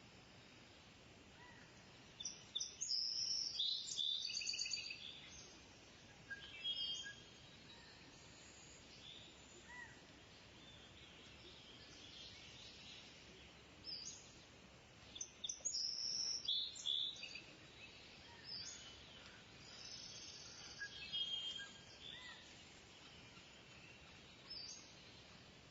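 A kingfisher calling in bouts of shrill, high-pitched calls: a long bout about two seconds in, another in the middle, and shorter calls between, over a faint steady background hiss.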